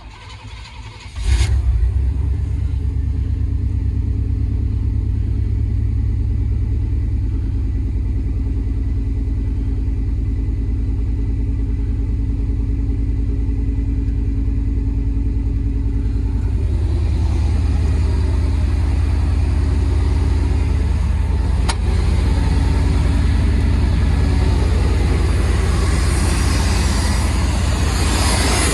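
OBS pickup truck engine idling steadily on new spark plug wires, running evenly with its earlier misfire gone. It starts about a second in after a brief quiet gap and grows somewhat brighter past the middle.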